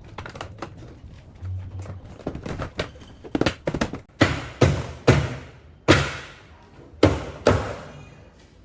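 A series of hard knocks, about eight, irregularly spaced and loudest in the second half, each dying away quickly.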